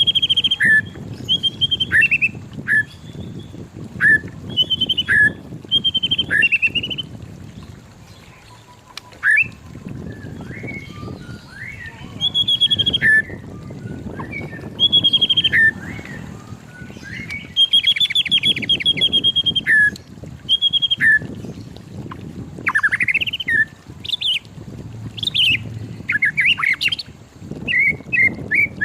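White-rumped shama singing: a string of short, varied whistled phrases with sliding notes and quick trills, separated by brief pauses. A low rumble runs underneath.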